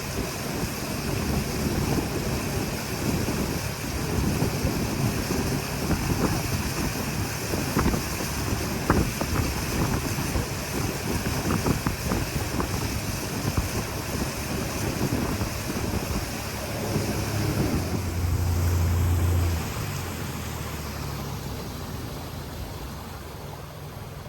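River boat's outboard motor running with wind buffeting the microphone. It quietens over the last few seconds.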